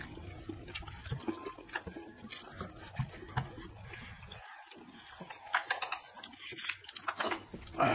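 People chewing momo dumplings, with scattered small clicks and taps from chopsticks and steel dishes.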